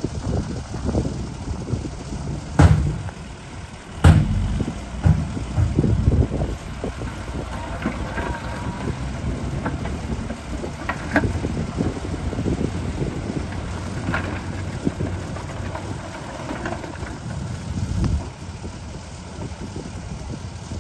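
Radio-controlled construction model working: a steady low rumble with scattered clicks and clanks, two sharp loud knocks a second and a half apart early on, and faint motor whine that rises and falls.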